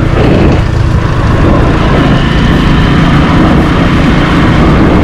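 Loud, steady wind noise buffeting a GoPro Hero 9's built-in microphone on a moving motorcycle, with no mic adapter to shield it. The bike's engine and road noise sit under the wind.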